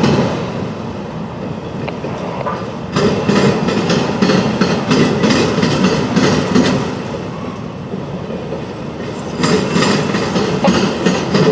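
A train rolling past, its steel wheels clicking over the track in a steady run of clacks, growing louder about three seconds in and again near the end.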